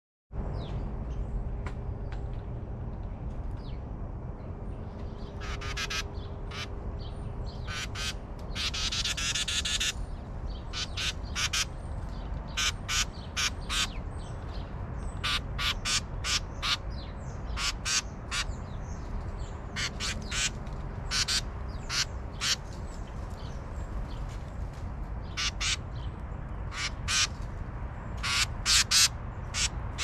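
Wild birds giving short, harsh calls at irregular intervals, with a longer chattering call about nine seconds in, over a steady low background rumble.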